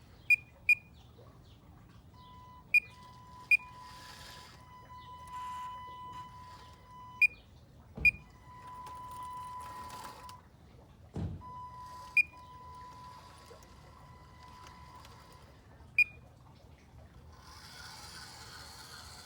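Hydraulic pump of a 1:14-scale RC excavator running in stretches with a steady whine that starts and stops. About eight short, sharp high beeps are scattered through it, and there are two low thumps partway through.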